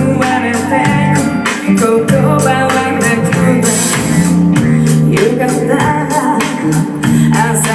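Live band music: a singer over guitar with a steady percussion beat.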